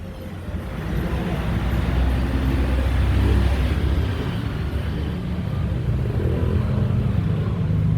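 A motor vehicle's engine running with road and traffic noise. It grows louder over the first couple of seconds, then holds steady.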